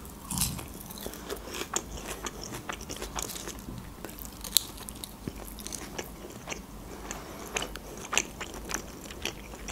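Close-miked chewing of a soft taco wrapped in thin lavash: irregular wet mouth clicks and small crunches, with one sharper click about four and a half seconds in.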